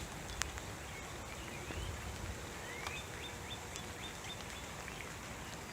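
Unidentified songbird singing faintly from high in a tree: short upward-slurred notes, then a quick run of about half a dozen short high notes about three seconds in. A sharp click comes about half a second in.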